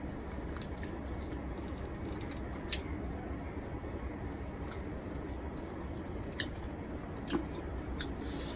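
A person chewing a mouthful of rice and small fish eaten by hand, with soft wet mouth sounds and three short sharp clicks, over a steady low hum.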